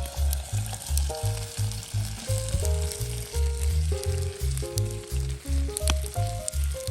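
Food sizzling as it fries, a fine crackling hiss with occasional sharp pops, under background music with a steady beat and melody.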